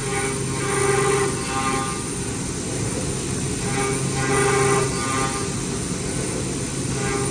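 CNC milling machine cutting: a steady mechanical noise with a pitched, multi-toned whine that swells and fades twice, about three and a half seconds apart.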